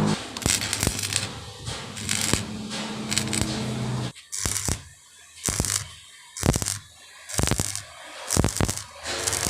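A low steady hum with light metallic clinks that cuts off about four seconds in. It is followed by short strokes of metal scraping on metal, about one a second.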